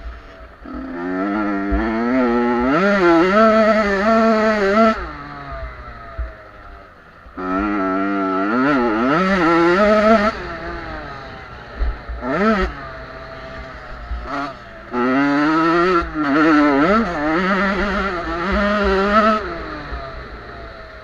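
Small two-stroke youth motocross bikes of 50 to 85 cc revving hard as they pass, their pitch climbing and dropping with throttle and gear changes. Three loud passes, with a short one in between, over a lower engine drone.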